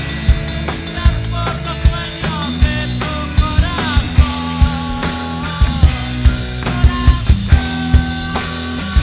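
A rock band playing: drum kit with frequent kick and snare hits under bass and guitar, with sustained notes that bend and slide in pitch.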